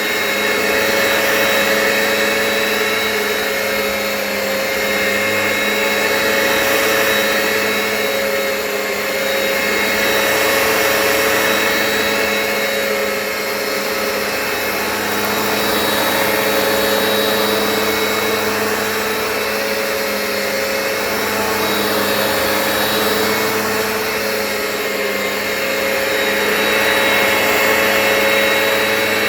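Hoover Power Path carpet cleaner running as it extracts a stain from carpet: a steady motor whine with several fixed tones over a rushing suction noise. The level swells and eases every few seconds.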